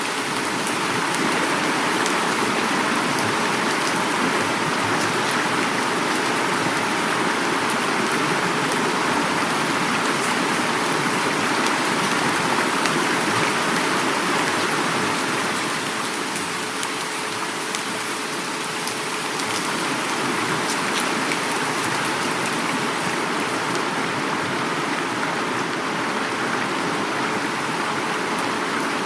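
Heavy rain falling steadily, with fine drop patter, mixed with flowing river water.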